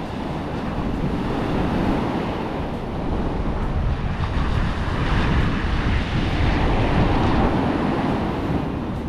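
Wind gusting and buffeting the microphone, swelling and easing over several seconds.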